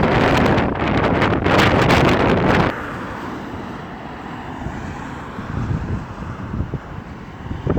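Strong wind buffeting the microphone. It drops off abruptly about a third of the way in, leaving a lower, steady rumble and hiss.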